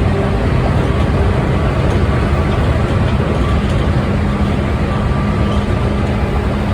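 Electric commuter train on the move, heard from inside the passenger car: a steady, even rumble of wheels and running gear with a faint steady hum of the traction motors over it.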